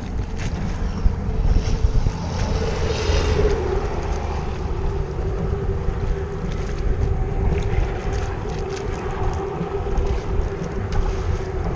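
Strong wind buffeting the microphone, a steady low rumble, with a steady hum that comes in about two and a half seconds in.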